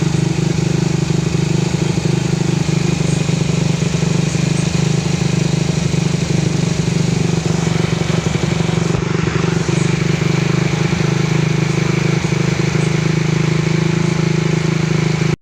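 Motorcycle engine idling steadily with an even, rapid pulse. It cuts off suddenly at the end.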